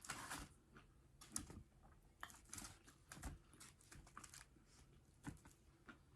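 Faint, close-miked chewing by a person eating, with irregular short mouth clicks and a few brief louder bites.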